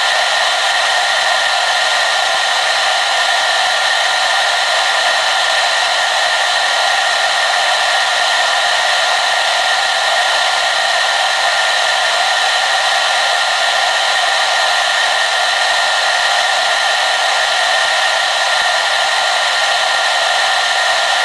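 Hair dryer running steadily on one setting: an even, high rushing blow with a faint steady whine, no low end, and no change in speed or breaks.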